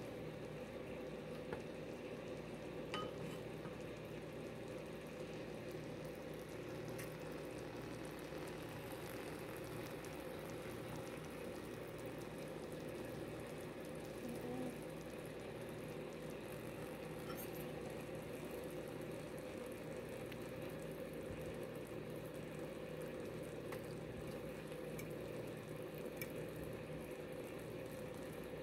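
Beaten egg with bitter melon, tomato and onion frying in a nonstick pan: a soft, steady sizzle, with a few faint clicks.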